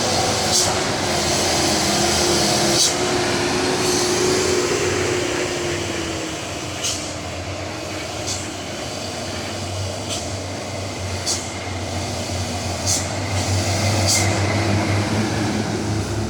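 Loaded diesel dump truck engine running under load through bends, a steady drone whose pitch slides down a few seconds in and becomes stronger and deeper in the second half. Short hissy bursts come every second or two.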